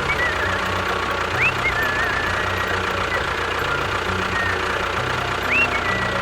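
An engine running steadily with a low, pulsing rumble, while high chirping whistles rise and fall over it several times.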